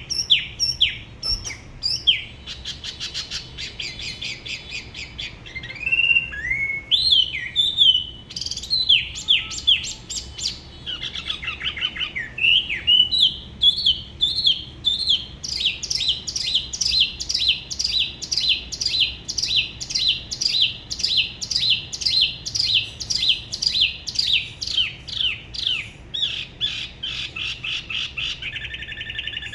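Spot-throated babbler singing a varied song of clear whistled phrases, with a long run of evenly repeated, sharply falling notes, about two a second, through the middle and a changed phrase near the end.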